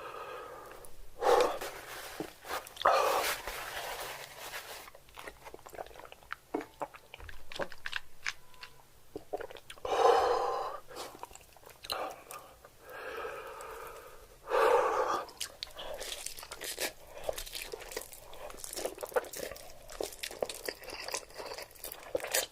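Close-miked eating: a person chewing and biting into crunchy food, with many small crackles and several louder crunching bites spread through.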